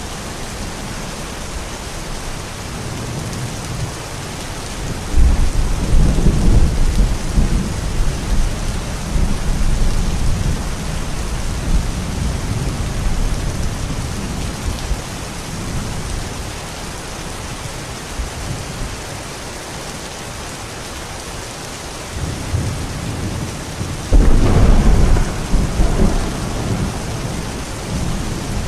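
Steady rain falling, with two rolls of thunder: one starting suddenly about five seconds in and rumbling for several seconds, another near the end.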